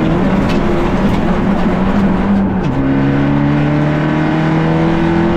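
Fiat Egea 1.4 T-Jet's turbocharged four-cylinder engine under hard acceleration, heard from inside the cabin over steady road noise. The revs climb, drop sharply with an upshift about halfway through, then climb again.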